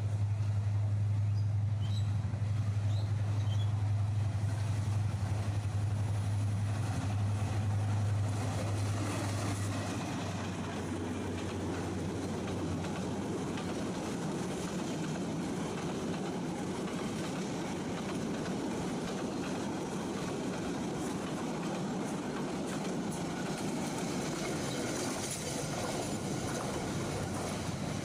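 A Bangladesh Railway class 2900 diesel-electric locomotive passes with a steady low engine drone. About ten seconds in the drone gives way to a long rake of passenger coaches rolling past, their wheels rumbling and clattering on the rails.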